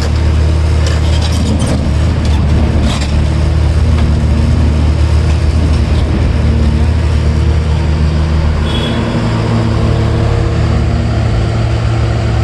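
Heavy diesel earthmoving machinery, an excavator working beside a dump truck, running steadily with a deep engine note. A few clattering knocks come in the first few seconds, and about two thirds of the way in the engine note shifts higher.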